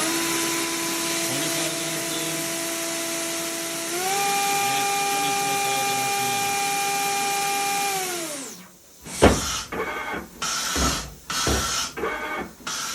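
Spindle of a Fanuc Robodrill α-T21iF vertical machining center running at high speed with a steady whine that steps up in pitch at the start and again about four seconds in, as it is run up through its speed range. About eight seconds in it winds down to a stop, followed by a sharp knock and irregular mechanical clatter.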